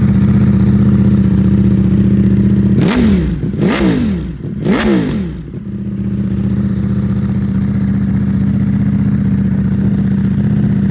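Ducati Panigale V4's V4 engine idling steadily. About three seconds in it is given three quick throttle blips that rise and fall, then it settles back to idle.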